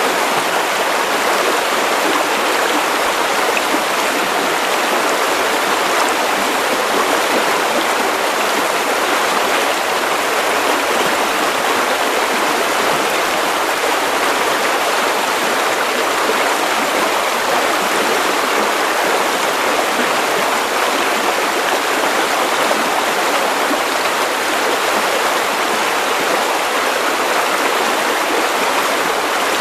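Steady white noise for sleep: an even, unchanging hiss with the deep bass cut away.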